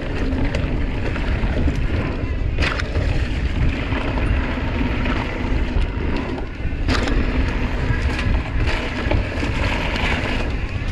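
Mountain bike descending a dirt singletrack: a steady, noisy rush of tyres on dirt and air over the microphone, broken by sharp clacks of the bike hitting bumps, clearest about three and seven seconds in.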